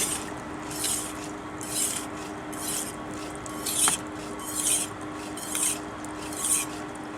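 A knife blade drawn again and again across a spinning 1000-grit diamond stone on a water-cooled grinder: a short hissing grind about once a second, over the steady hum of the grinder's motor.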